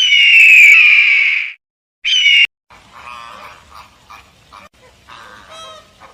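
A bird's loud screeching call lasting about a second and a half, falling slightly in pitch. A second short screech follows, then a run of softer, choppy animal calls.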